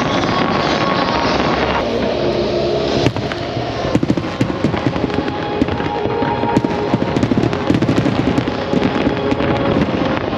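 Large fireworks display: a continuous barrage of overlapping firework bursts and crackling, with a sharper bang about three seconds in.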